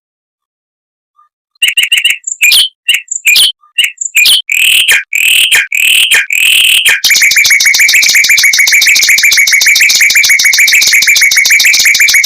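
Mockingbird singing: after a short silence, a string of separate short, sharp notes, then from about seven seconds in a long, very fast, even trill.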